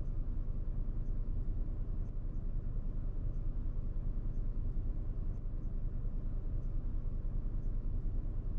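Mazda3's 2.5-litre naturally aspirated four-cylinder engine idling: a steady low hum with a light, even pulse.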